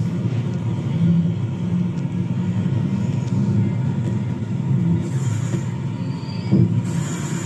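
Train rolling along with a steady low rumble, and a brief knock about six and a half seconds in.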